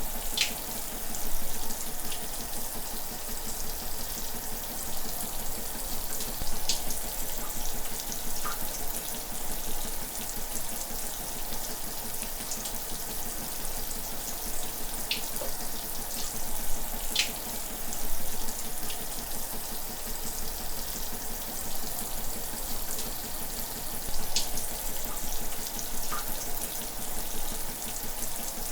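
Running shower water falling steadily, a continuous hiss with now and then a brighter splash.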